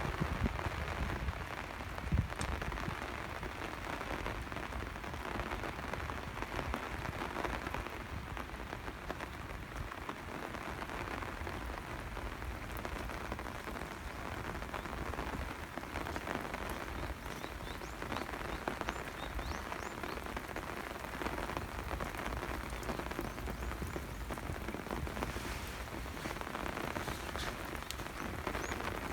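Steady rain falling, a continuous patter of many small drops hitting surfaces, with a low rumble underneath.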